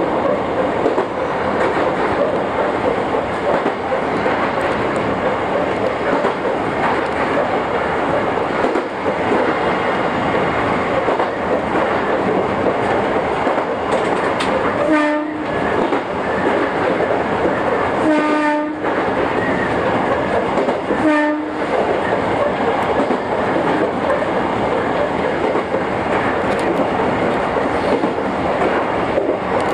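Electric train running steadily along the track, heard from inside the driver's cab, with wheels clicking over rail joints. About halfway through, the train's horn sounds three short blasts, each a second or less, about three seconds apart.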